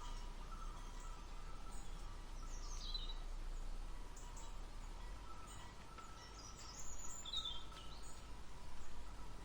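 Birds calling outdoors: a few short high chirps that sweep downward, in scattered groups over a steady background hiss.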